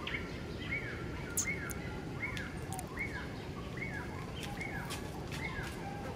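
A bird calling: one short arched note repeated about every three-quarters of a second, over a steady background hiss.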